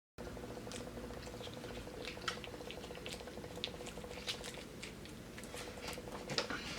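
Close-up mouth sounds of someone eating fried chicken livers: soft wet chewing with scattered lip smacks and clicks, over a faint steady hum.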